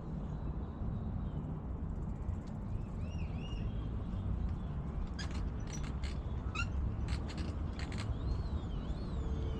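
Birds calling in trees: short sliding whistles, then a quick run of sharp chirps in the middle, over a steady low rumble.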